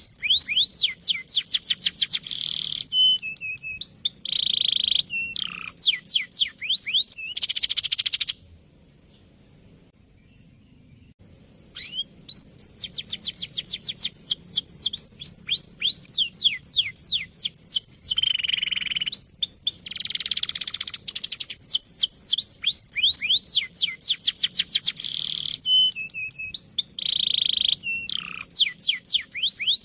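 Male canary singing a fast rolling song: rapid trills of repeated falling notes alternating with buzzy phrases. The song breaks off for about three seconds roughly a third of the way through, then resumes.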